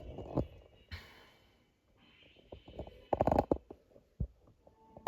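Small plastic model figures being handled and set down on a hard surface: a scatter of light clicks and knocks, bunched together around the middle, with a short breath about a second in.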